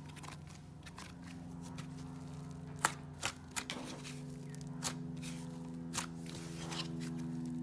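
Hands squishing and stretching a soft, creamy butter slime, with a sizzly crackle and a handful of sharp clicks.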